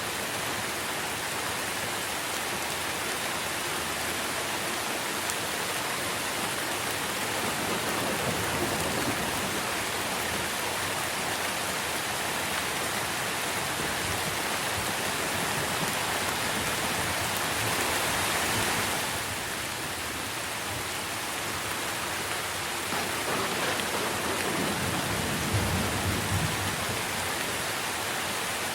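Steady rain falling on tree leaves, an even hiss with a brief swell in the higher pitches partway through and a low rumble near the end.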